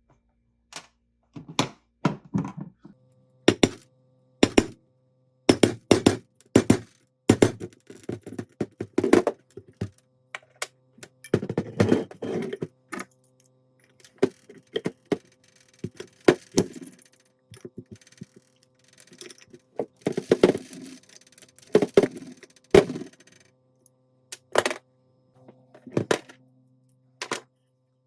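Metal parts and hand tools knocking and clinking against a workbench while an old Bostitch N80S pneumatic nailer is worked on: a string of sharp thunks and clanks, some single and some in quick clusters, over a faint steady hum that starts about three seconds in.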